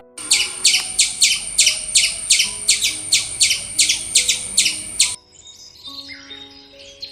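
A bird chirping rapidly in an even series of high chirps, about four a second, that stops abruptly about five seconds in. Fainter, different chirping follows, with quiet background music underneath.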